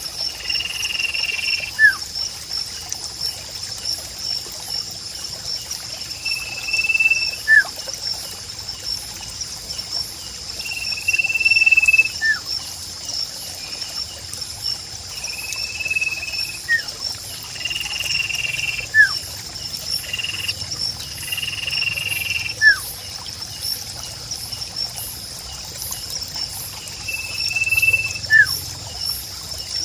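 A sirpu bird calls every few seconds: short held whistled notes and quick falling chirps. Beneath it runs a steady, fast-pulsing high insect trill, with a soft trickle of water.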